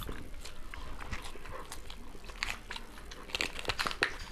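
Close-miked chewing and lip-smacking of chowmein and fried rice eaten by hand, with sharp crunchy bites into raw green chillies in the second half.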